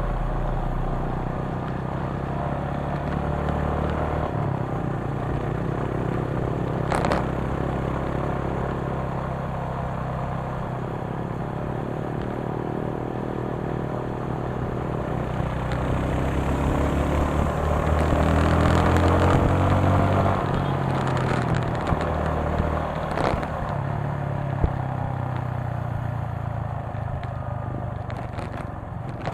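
Motorcycle engine running while being ridden, with road and wind noise. The engine note climbs and grows louder a little past halfway as it accelerates, then eases off. A couple of sharp knocks come through along the way.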